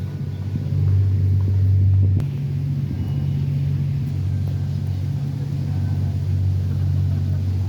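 A loud, low, steady mechanical drone whose balance between two low tones shifts about two seconds in.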